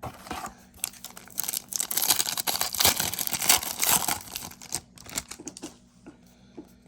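A trading card pack's plastic wrapper crinkling and being torn open, a dense crackle that peaks in the middle, followed by a few light clicks and rustles as the cards are handled.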